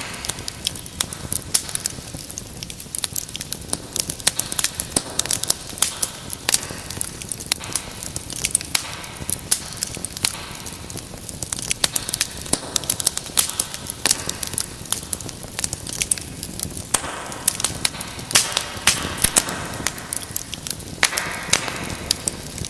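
Wood fire crackling in a fireplace: a dense run of sharp pops and snaps over a soft low rush of flame.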